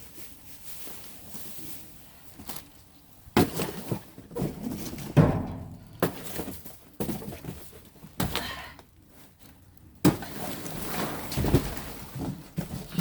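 Several thuds and knocks, with rustling in between, as boxes and trash are moved around in a dumpster. The loudest knocks come about a third of the way in and again near the end.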